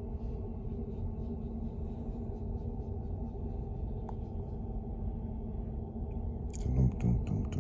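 Steady low mechanical rumble with a constant hum, as of an engine heard from inside. A few sharp clicks and a brief louder knock come near the end.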